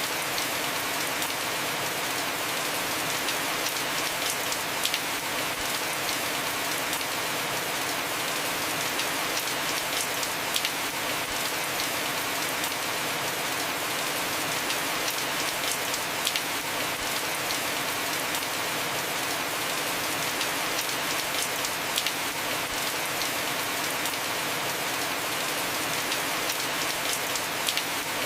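Heavy rain falling steadily on a house roof, a dense even hiss with scattered sharper drop ticks.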